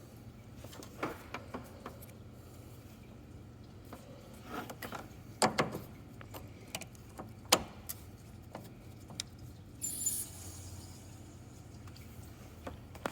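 Scattered clicks and knocks from handling the plastic A/C service port caps and snapping quick-connect couplers onto the service ports, the loudest about five and a half and seven and a half seconds in. A short hiss comes about ten seconds in, over a steady low hum.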